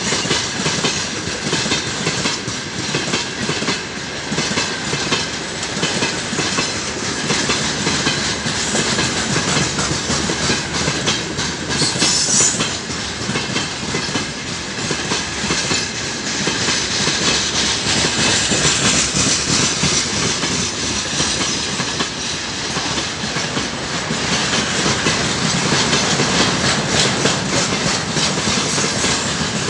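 Heavily loaded freight train of gondola and tank cars rolling past, a continuous rumble with steel wheels clattering over the rail joints. A brief high squeal comes about twelve seconds in.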